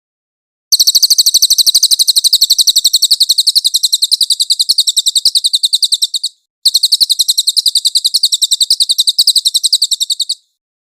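Cililin bird singing: two long, rapid, high-pitched trills of about nine notes a second. The first trill runs about five and a half seconds; after a short break the second runs about four seconds.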